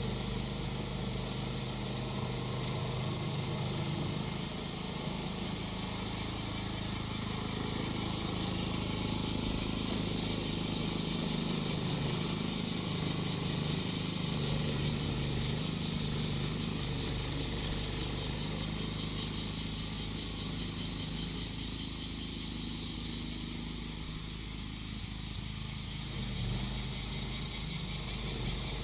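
Small engine of a grass-cutting machine running steadily, with cicadas singing a dense, high, pulsing drone over it. The engine dips a little about three-quarters of the way through, then picks up again.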